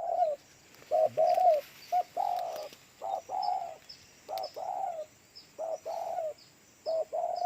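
Spotted dove cooing over and over, each phrase a short note followed by a longer note that falls away, about one phrase a second. Faint high chirps from another small bird run underneath.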